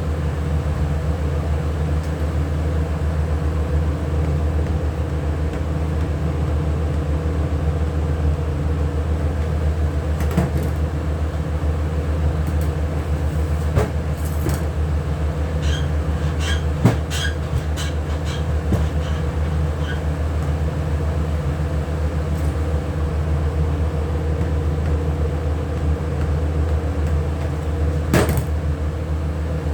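Steady motor hum from a running machine, with a few sharp knocks and, about halfway through, a short run of ringing clinks.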